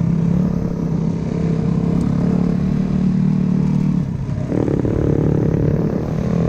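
Dirt bike engine running at a steady pitch, easing off briefly about four seconds in before picking back up.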